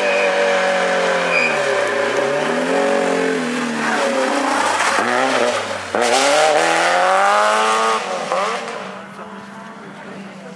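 Rally car engine at full throttle, its pitch repeatedly falling and climbing as the driver lifts off and changes gear. About eight seconds in it drops away to a quieter, steady engine note.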